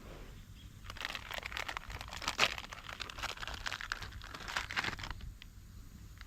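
Crinkling, rustling handling noise: a dense run of small crackles starting about a second in and stopping about five seconds in.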